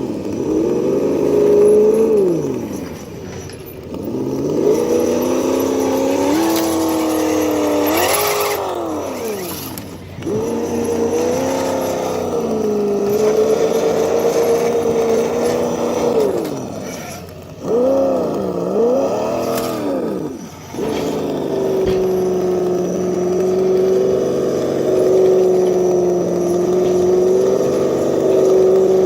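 Simulated V8 engine sound from an ESS Dual sound module, played through the small speaker of a scale RC crawler, rising and falling in pitch with the throttle. It dips out briefly a few times, then holds a steady note for the last third.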